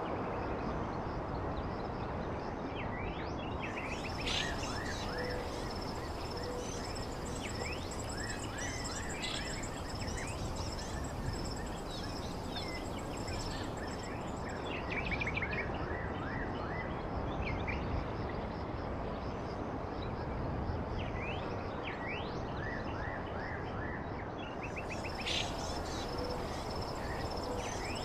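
Wild birds chirping in short, scattered calls over a steady background hiss. A high, steady insect trill comes in a few seconds in, stops about halfway through, and returns near the end.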